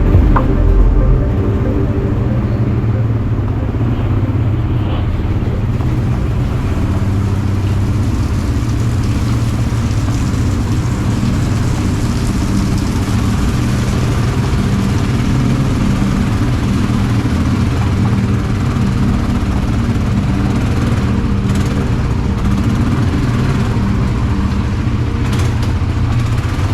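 Quad bike (ATV) engine running steadily while riding, with road and wind noise.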